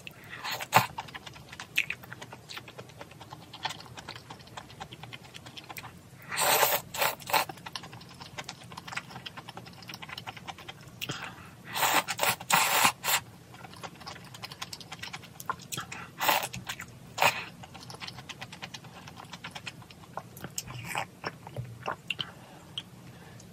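A person eating malatang: chewing and biting with many small clicks, broken by a few louder, longer noisy bursts about a quarter of the way in, around halfway, and about two-thirds of the way through.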